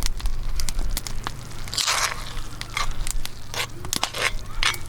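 A campfire crackling with sharp pops, and three crunches: about two seconds in, around four seconds in, and at the very end.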